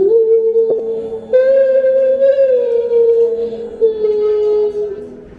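A high voice singing long, drawn-out notes: a held note steps up about a second in, then slides slowly down in pitch and holds again.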